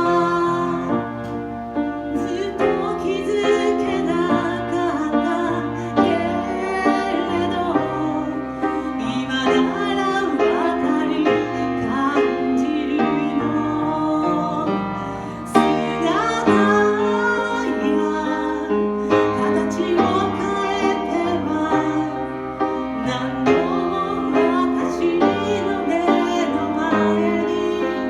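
A woman singing a song with instrumental accompaniment, performed live.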